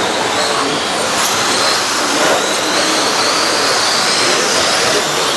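Electric RC stock trucks racing on the track: a high motor whine that drifts slightly up over a steady hiss of motors and tyres.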